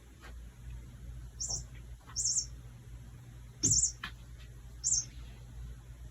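Bird-call sound chip of a cat wand toy chirping: four short, high chirps, each about a second apart, the third the loudest and joined by a soft thump.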